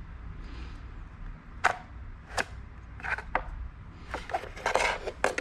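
A series of sharp clicks and knocks from small hard parts being handled, single ones at first and then a quick cluster near the end, over a low steady hum.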